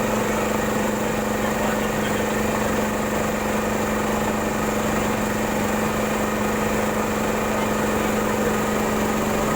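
A boat's engine running steadily at a constant pitch.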